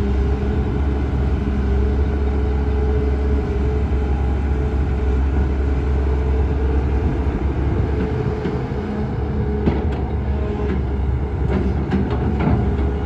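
Heavy diesel engine of an excavator running steadily under load, with a deep rumble. In the second half come several sharp knocks and clanks.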